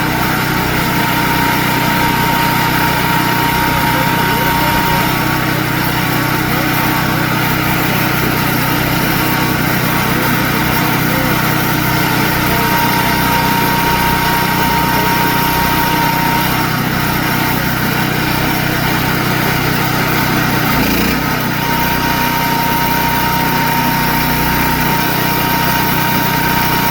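Electric drill running steadily, drilling out a knife handle block to make room for a hidden tang. A higher whine comes and goes several times, and the motor briefly dips about twenty seconds in.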